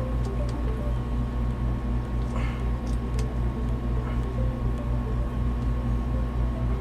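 Steady low machinery drone, with a few light clicks and a short rustle about two and a half seconds in.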